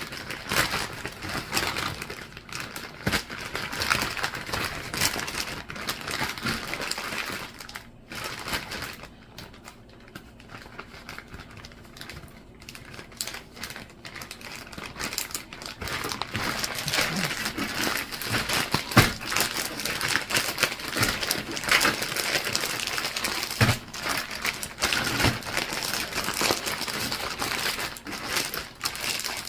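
Doubled plastic bag crinkling and rustling as it is handled and squeezed, in bursts of crackling that ease off for a stretch in the middle and pick up again about halfway.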